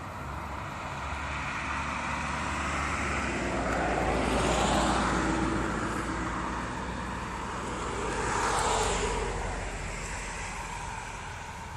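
Two vehicles passing on a road, their tyre and engine noise swelling and fading, the first about five seconds in and the second about nine seconds in, over a steady low rumble.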